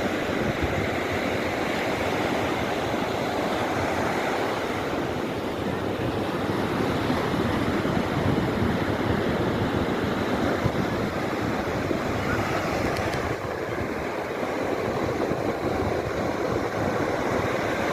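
Big ocean waves breaking on a beach: a steady, continuous rush of surf, with some wind on the microphone.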